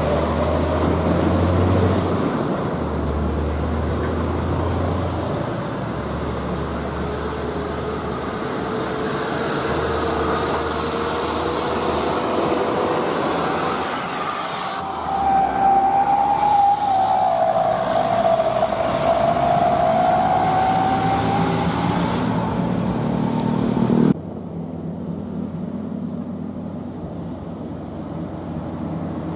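Heavy diesel trucks running along the road, with engine and road noise and a wavering pitched whine in the middle; the sound drops abruptly to a quieter truck drone about three-quarters of the way through.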